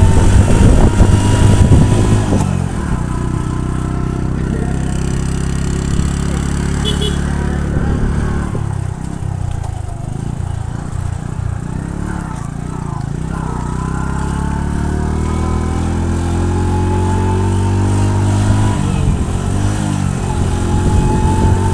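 Motorcycle engine running while riding. Its note falls about halfway through as the bike slows, then climbs steadily as it speeds up again. There is rough buffeting noise in the first couple of seconds.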